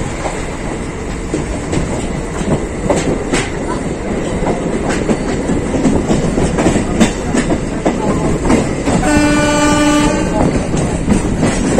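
MEMU electric train running along the line, its wheels clattering over rail joints with a continuous rumble, heard from inside the coach. About nine seconds in, a train horn sounds once as a steady tone lasting a little over a second.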